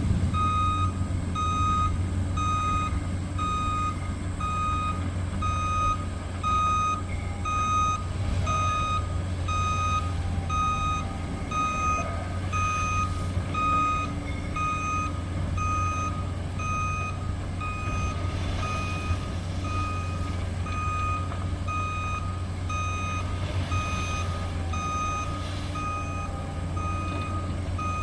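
Backup alarm of a gravel dump truck beeping steadily, about once a second, over the low rumble of its diesel engine as it reverses in to dump its load.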